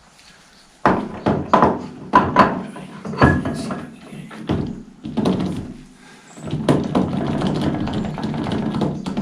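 A run of sharp metal knocks and clunks starting about a second in, then a longer stretch of rattling and scraping with more knocks, as the Fordson Major's bull pinion shaft and its parts are worked and tapped into the housing. They will not seat, typical of splines not lining up.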